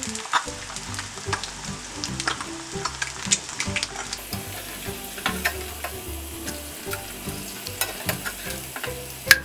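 Eggs frying in hot oil in a pan, with a steady sizzle and scattered crackling pops, and a sharp click near the end.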